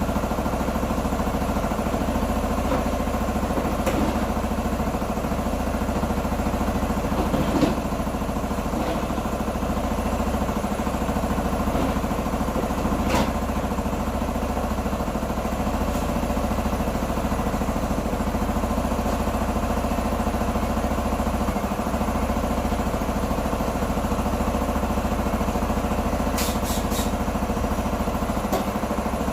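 A Q2 Dynamic 125 motorcycle engine idling steadily, with a few light clicks over it.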